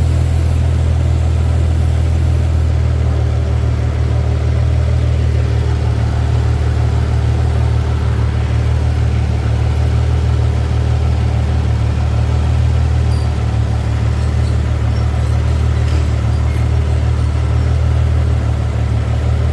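Infiniti G37's 3.7-litre V6 idling steadily, an even low hum with no revving.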